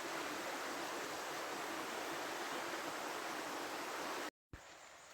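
River water flowing steadily, an even rushing hiss, which cuts off abruptly about four seconds in. After a brief silence a much fainter background follows.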